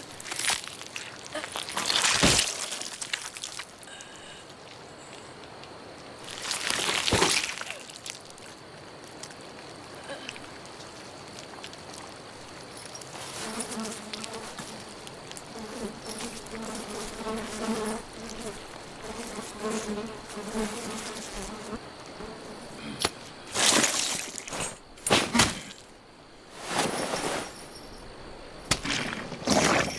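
An insect buzzing in a wavering drone for several seconds midway, over steady outdoor ambience, with several loud, sudden noisy swells before and after.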